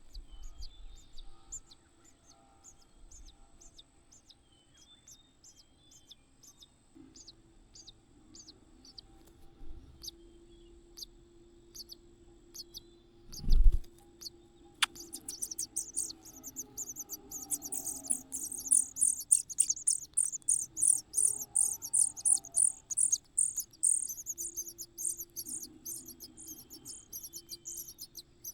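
Birds chirping in rapid, high-pitched runs, sparse at first and then dense and loud from about halfway in. A single loud thump comes just before the chirping builds.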